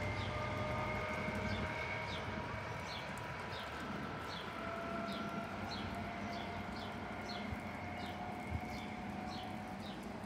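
Diesel engines of a departing HST high-speed train, a steady whine that slowly fades as the train runs off into the distance. A small bird chirps a short note over it, about twice a second.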